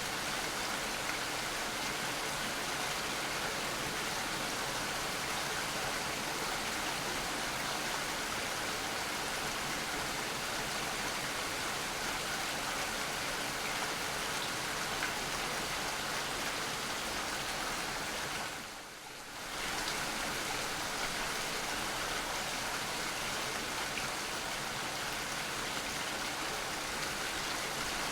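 Steady, dense rainfall hiss, with a brief dip in level about two-thirds of the way through before it resumes.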